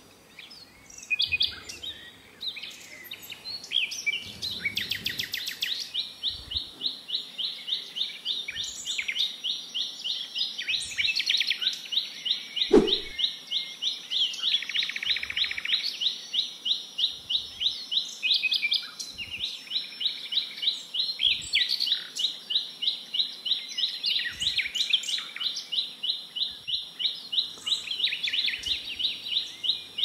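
Birds calling: a fast, steady run of high chirps goes on almost without a break, with other short bird calls over it. A single knock sounds about halfway through.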